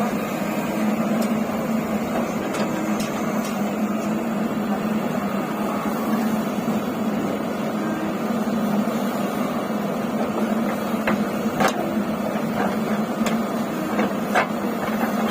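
Heavy diesel engine running steadily at a constant speed, with a few short knocks or clanks, mostly in the second half.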